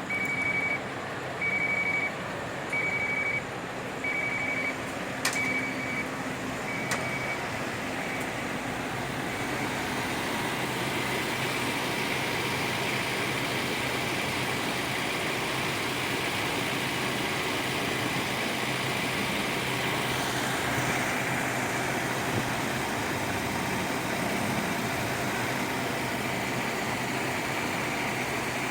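Bus pulling out of a terminal: a short high electronic warning beep repeats about seven times over the first seven seconds or so, then the bus's engine and road noise settle into a steady run.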